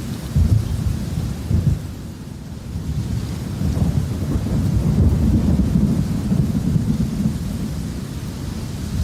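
Thunderstorm: steady rain hiss under low rolling thunder, with two sharp low cracks in the first two seconds and a long rumble that swells from about three seconds in.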